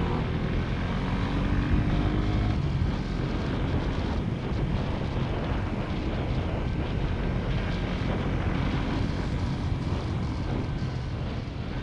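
Motorcycle engine running under way with a steady rush of riding wind over the microphone. Its faint engine tone sinks into the wind noise about two seconds in.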